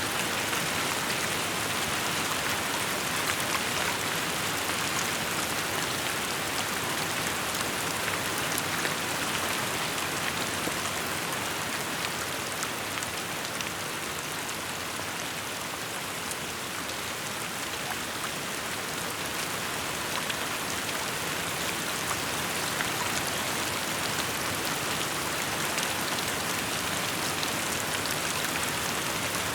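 Steady rain falling, a dense even hiss with the patter of many small drops on surfaces.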